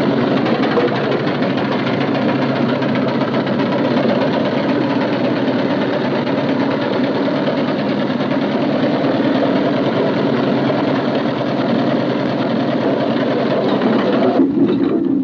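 A train running at speed with a loud, steady, fast mechanical rattle, as on an old film soundtrack. The high clatter cuts off suddenly about a second before the end, leaving a lower rumble.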